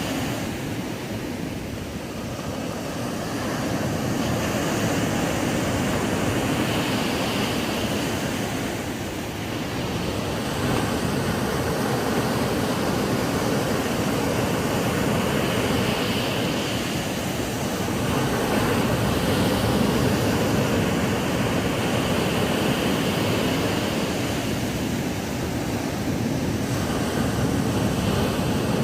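Ocean waves breaking on a sandy beach: a steady wash of surf that swells and eases every few seconds.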